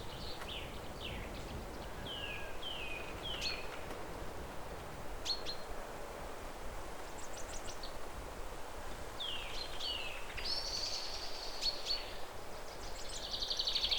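Small songbirds chirping: many short notes sliding downward, several birds calling back and forth, with a longer buzzy trill near the end. A steady low outdoor background noise runs underneath.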